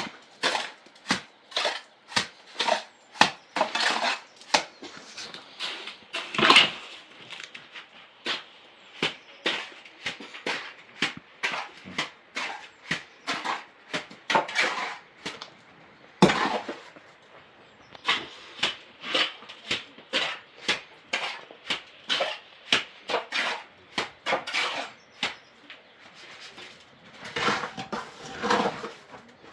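A long series of sharp knocks, about two to three a second, with a few short breaks.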